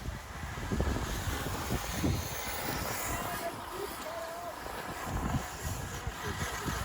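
Radio-controlled cars driving on an off-road bashing track, their motors and tyres making a steady din with scattered knocks.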